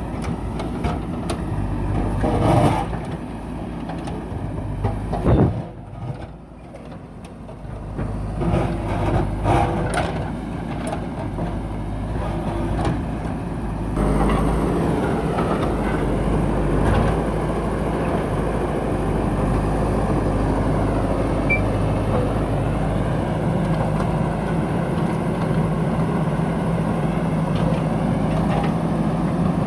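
Diesel engine of a JCB backhoe loader running under work, with several sharp knocks in the first half. About halfway through, the engine becomes suddenly louder and steadier.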